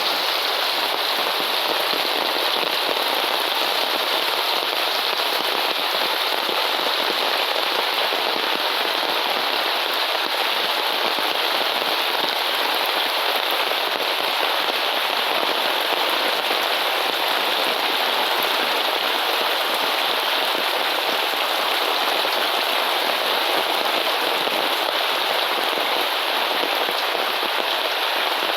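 Heavy rain falling steadily in a downpour, a dense even hiss of drops on surfaces.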